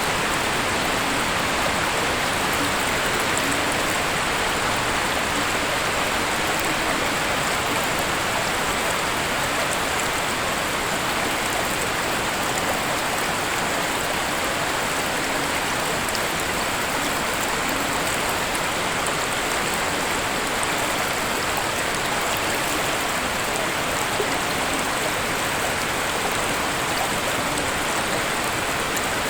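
Waterfall: steady, even rushing of falling water, unchanging throughout.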